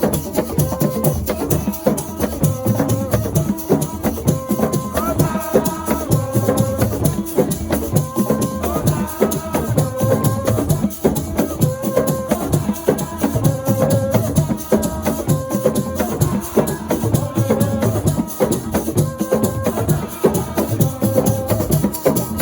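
Assiko music: fast, dense drumming with shakers rattling throughout, over a short melodic phrase that repeats about every one and a half seconds.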